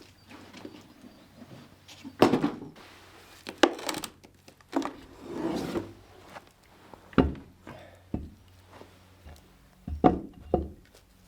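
Wood being knocked and handled: several sharp knocks at irregular intervals, with a stretch of rubbing in the middle.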